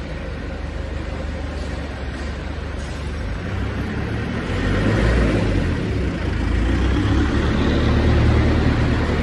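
Diesel engine running steadily with a low rumble, growing louder about halfway through.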